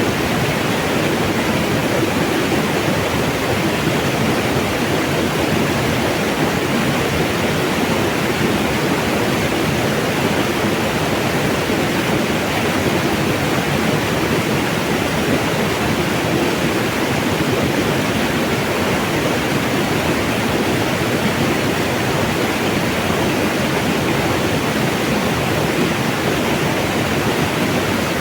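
Cool mountain water rushing steadily, a constant even roar of flowing water with no change.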